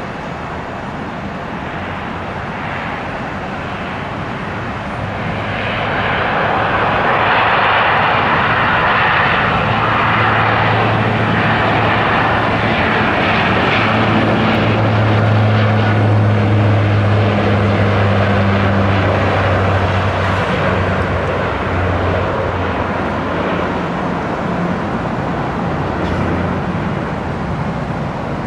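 Airliner engines running loudly as an aircraft passes on or near the runway, a rushing noise with a steady low hum. It swells after about five seconds, holds strongest for around ten seconds, then eases slowly.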